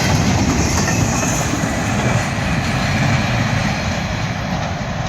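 CSX freight train rolling past, a steady low rumble with faint clicks from the wheels on the rails, easing off slightly near the end.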